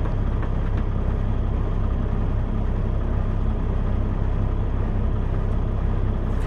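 Semi truck's diesel engine idling, a steady low rumble heard inside the cab.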